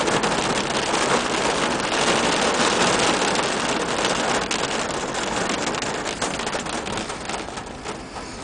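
Heavy rain pouring down in a steady rush, growing quieter over the last few seconds.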